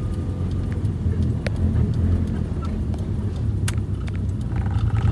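Car engine running with a steady low hum as the car is driven slowly, with a few faint clicks.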